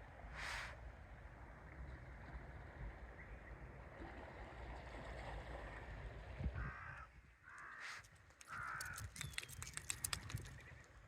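Crow cawing: three short calls about a second apart, starting a little past the middle, over a steady low rumble. A quick run of sharp clicks follows near the end.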